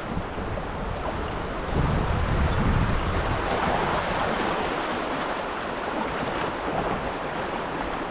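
Rushing water of a small river rapid around a canoe, a steady hiss. About two seconds in, wind buffets the microphone with a low rumble for about a second.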